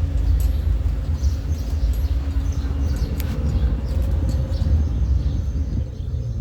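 Steady low rumble of a colectivo's engine and road noise, heard from riding in the vehicle, with faint bird chirps over it.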